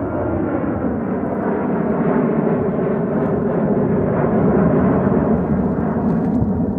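Boeing 737-700's CFM56-7B jet engines running at high power: a loud, steady roar that swells gradually, peaking about two-thirds of the way through.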